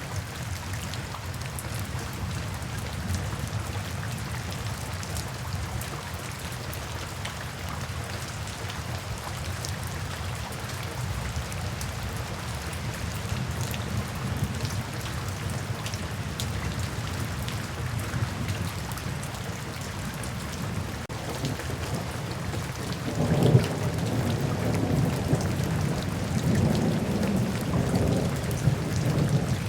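Steady heavy rain falling, with a low rumble underneath; about three-quarters of the way through, a louder roll of thunder swells in and keeps rumbling.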